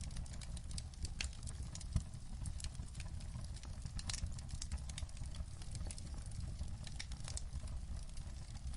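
Wood fire crackling in a fireplace: a steady low rumble of flames under frequent irregular pops and snaps, with one louder pop about two seconds in.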